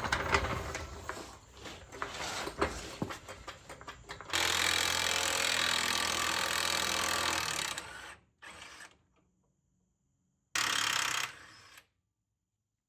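Hand tools clicking and knocking on metal for about four seconds, then a power tool running steadily for about four seconds, followed by two short bursts of it with gaps in between.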